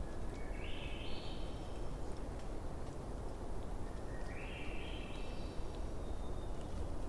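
Campfire crackling with a few sharp pops over a steady low rumble, while a bird sings two rising phrases, one about half a second in and another about four seconds in.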